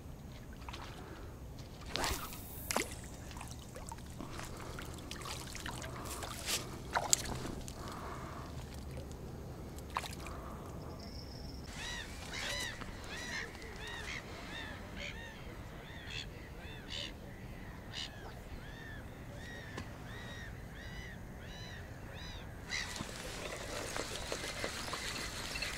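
A bird calls over and over, short arched notes several a second, for about ten seconds from roughly the middle of the stretch. Before it come a few sharp clicks and knocks.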